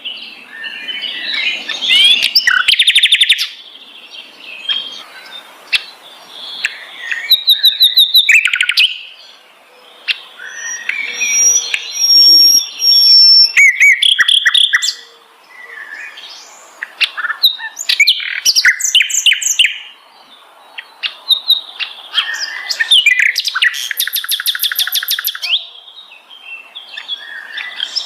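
A sikatan londo, a flycatcher, singing a varied song of chirps, trills and fast runs of repeated notes, in phrases broken by short pauses.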